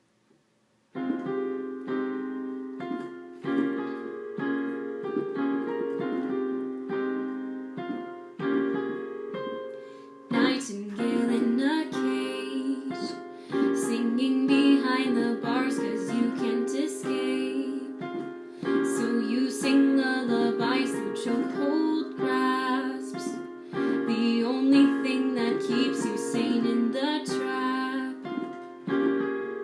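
Piano playing a slow introduction of chords; about ten seconds in a woman's voice begins singing over it.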